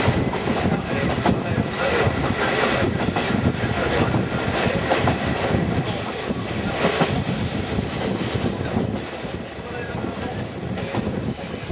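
Running noise of a KiHa 48 diesel railcar train heard from an open-sided car: wheels rumbling and clattering on the rails, with high thin squeals from the wheel flanges as it takes a curve. The squeal comes in briefly twice around the middle and then holds steady through the last few seconds.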